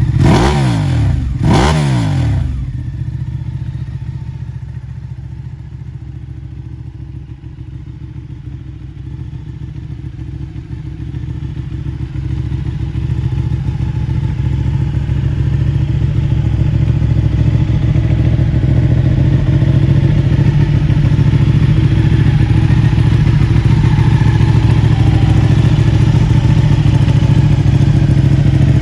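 Ducati Panigale 959's L-twin engine breathing through a full-system Akrapovic exhaust: two quick revs right at the start, each rising and falling sharply, then a steady idle. The idle fades a little and then grows louder over the second half.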